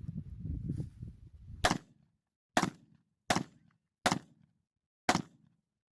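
Five gunshots at a steady pace, roughly one a second, each a sharp crack with a short tail. Before the first shot there is a low rumble.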